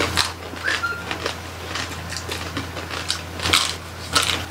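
Close-up eating sounds of people chewing roast pig (lechon) by hand: scattered wet chewing clicks and lip smacks, a few sharper than the rest, over a steady low hum.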